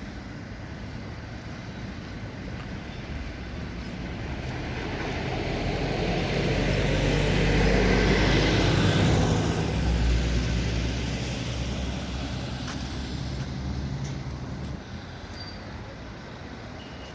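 A road vehicle with a heavy-sounding engine drives past, growing louder to a peak about eight or nine seconds in and then fading away, over steady street traffic noise.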